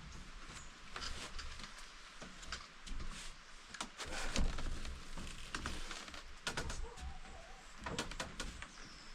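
Irregular knocks, clicks and scrapes of hands and tools working on a door and its frame, the loudest knock about four and a half seconds in.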